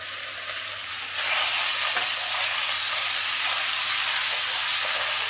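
Diced raw chicken sizzling in hot oil and fried garlic in a non-stick wok, stirred with a wooden spatula. The sizzle grows louder about a second in, then holds steady.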